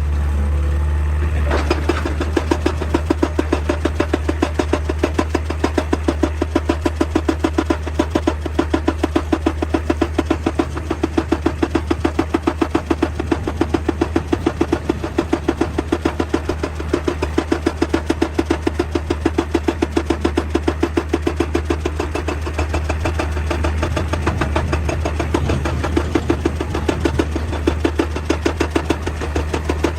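Excavator engine running under load while a hydraulic rock breaker hammers stone in a rapid, even rhythm of several blows a second, starting about a second and a half in.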